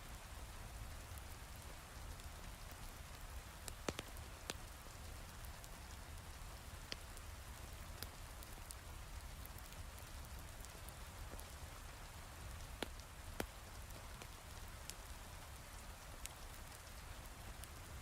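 Heavy rain falling steadily with a low rumble. A few sharp isolated pops stand out, the crackle of a wood fire in a fireplace.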